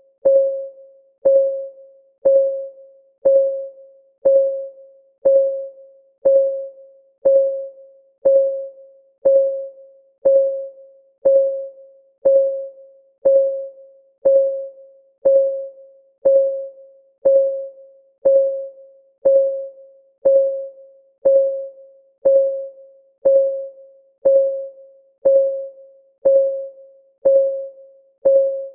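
Countdown timer's clock-ticking sound: a steady tick once a second, each a short pitched ping that fades within about half a second.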